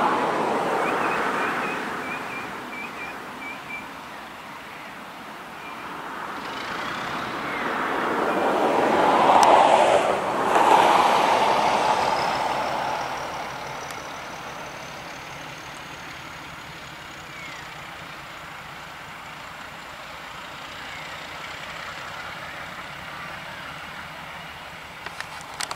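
Heritage train passing close by: diesel F 40 leading steam locomotive W 945, their engines and wheels on the track growing louder to a peak about ten seconds in, then fading away.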